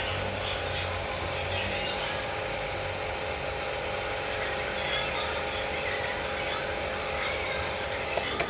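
A motor-driven machine running steadily with a constant hum over a noisy hiss, cut off abruptly near the end.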